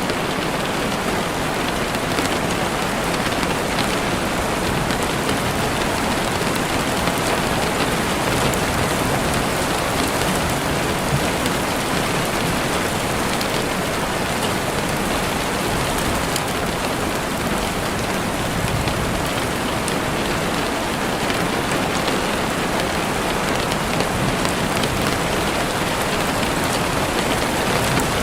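Steady rain falling in a forest, an even dense hiss of drops, with a campfire crackling in faint scattered ticks underneath.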